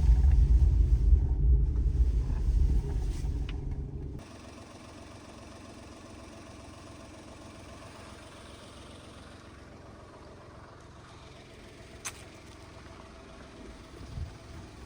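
Low rumble of a Daihatsu Terios Kid mini SUV driving on a forest road. It fades and then cuts off sharply about four seconds in. A faint steady hiss follows, with one sharp click later on and a soft thump near the end.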